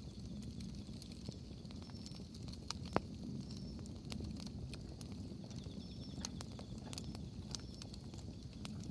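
Wood bonfire burning: a low steady rustle of flame with scattered crackles and snaps of the burning firewood, and one sharper, louder pop about three seconds in.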